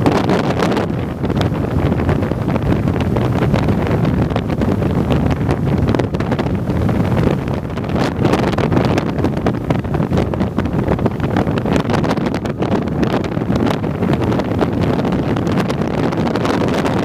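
Strong wind buffeting the microphone: a loud, rumbling noise that rises and falls with the gusts.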